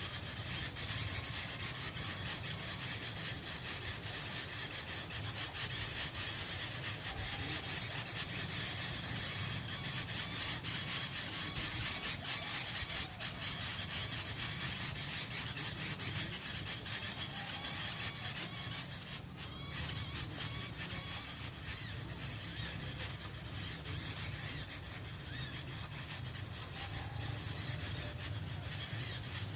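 Small birds chattering and twittering rapidly in a dense, raspy stream, the kind of call used as a bird lure. In the second half a string of short high chirps stands out.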